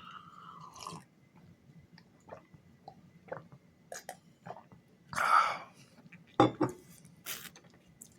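Lock picking: small irregular clicks and scrapes of a pick and tension tool working in a lock. There is a short squeak at the start, a louder rustle about five seconds in, and a couple of sharp knocks just after it.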